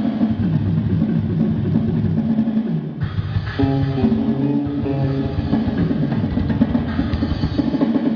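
Drum kit played through an Alesis DM5 electronic drum module, with continuous strikes of kick, snare and cymbals. Pitched notes like bass and guitar play alongside, and the playing thins briefly at about three seconds.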